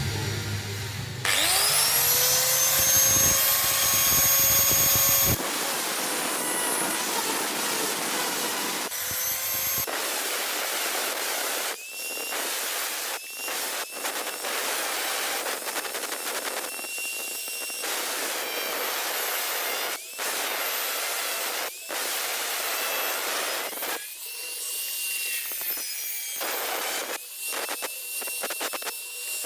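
A power tool's motor spins up to a steady speed. It then grinds against metal in repeated passes, the sound breaking off and starting again as the work is touched to it and lifted away, typical of grinding rust off a blade.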